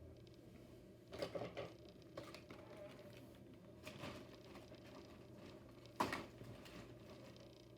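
Light handling noises of a die-cast model car and its packaging: soft rustles and small clicks about a second in and again around four seconds, then one sharper click about six seconds in.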